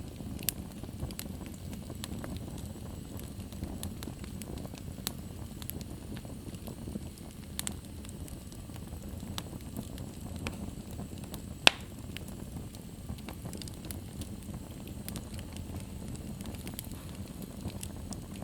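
Fire crackling in a fireplace: a steady low rush of flames with scattered sharp crackles, and one louder pop a little past the middle.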